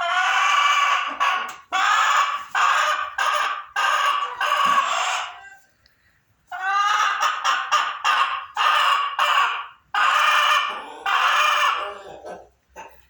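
Leghorn hen cackling: two long runs of loud, repeated calls, with a pause of about a second in the middle.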